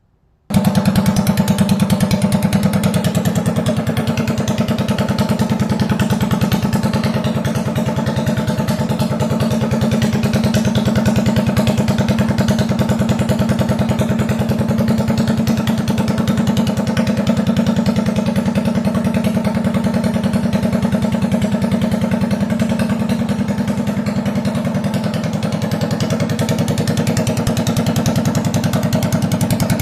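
Mini bike engine running steadily with a fast, even exhaust pulse; it comes in abruptly about half a second in.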